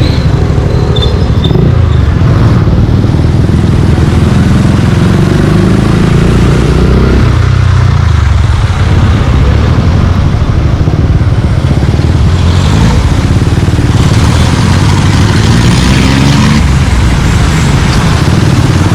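Suzuki Gixxer 155's single-cylinder engine running through a Yoshimura exhaust while riding. Its low exhaust note rises and falls with the throttle a few times.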